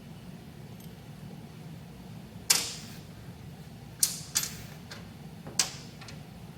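Small metal parts, screws and tools being picked up and set down on a workbench while a lathe compound slide is taken apart: four sharp clacks, the first the loudest and two of them close together, over a steady low shop hum.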